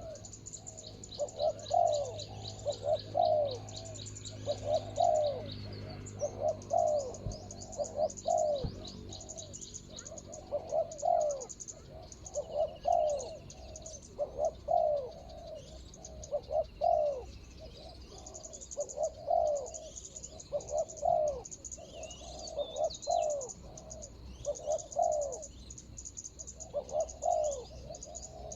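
Spotted doves cooing over and over, short hoarse coo phrases repeating every second or two, with high thin chirping of small birds or insects above them.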